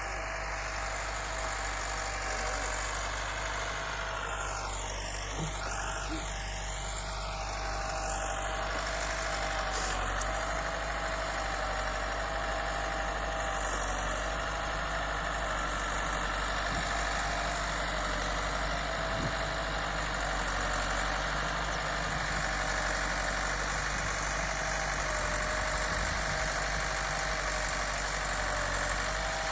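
New Holland Al-Ghazi tractor's diesel engine running steadily.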